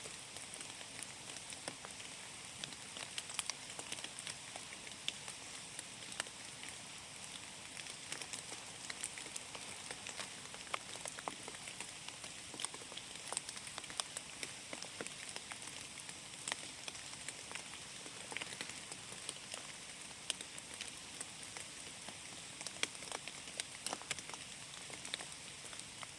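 Steady rain falling in a forest, a soft hiss under many separate drops ticking close by.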